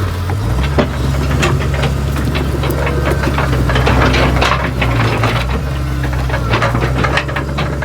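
Excavator's diesel engine running under load, its pitch shifting about half a second in, with many sharp clanks and rattles from the steel tracks as the machine travels on its freshly re-seated track.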